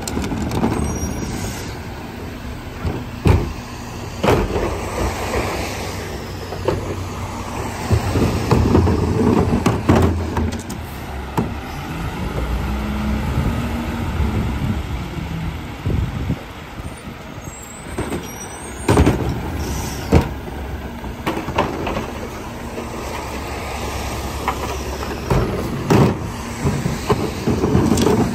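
Garbage truck running, with sharp metal bangs and knocks scattered through it as bins are handled and dumped. The engine swells and falls once about halfway through.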